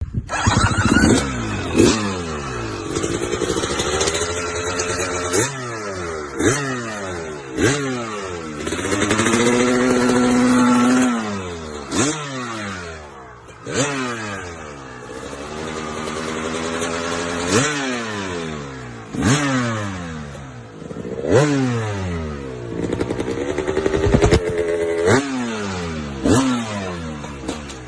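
Trail/enduro motorcycle engines revving hard again and again, each sharp burst of throttle followed by a falling pitch, with a couple of longer held revs in the middle.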